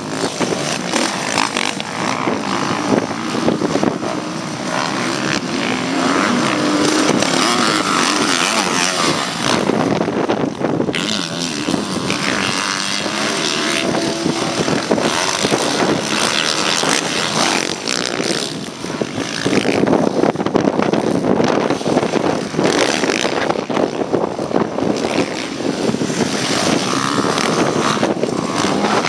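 Motocross bikes racing on the track, their engines revving up and down continuously as they accelerate and back off, with a brief lull just before the middle.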